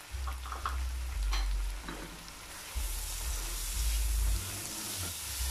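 Spiced onion and tomato curry base sizzling in oil in a stainless steel pot while it is stirred with a wooden spoon, with a few taps and scrapes of the spoon and low thumps. The sizzle grows stronger about three seconds in.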